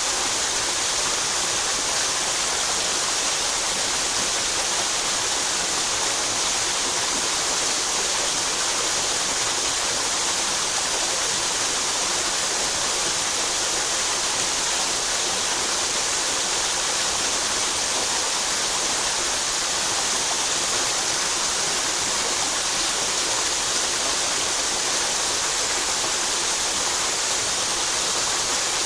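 Mountain headwater stream flowing, a steady, unbroken rush of water.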